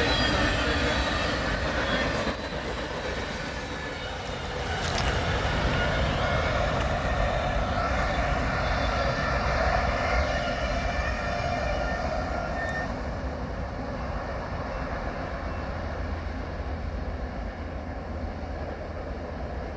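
Empty grain hopper cars of a freight train rolling past on the rails, a steady rumble and clatter of steel wheels with thin high squealing tones. The noise slowly fades toward the end.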